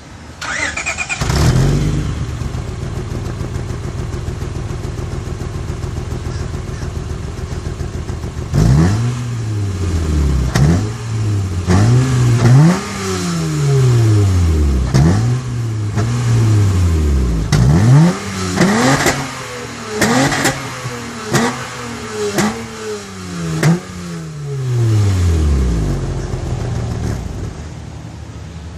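Acura TL's engine through a modified exhaust, catching about a second in and idling, then blipped up and back down about a dozen times in quick succession before settling back to idle. The owner says the engine has a random misfire.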